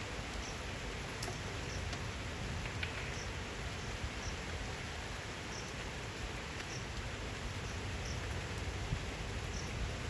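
Steady rain with gusting wind, the wind giving a low, uneven rumble beneath the even hiss of the rain.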